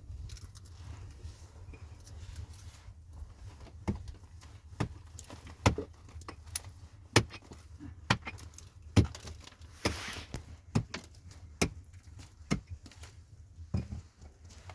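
A series of irregular sharp knocks and clicks, about one a second, with a brief rustling swish about ten seconds in.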